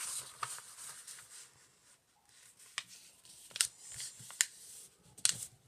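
A sheet of paper being folded and creased by hand: soft rustling with several short, sharp crackles in the second half.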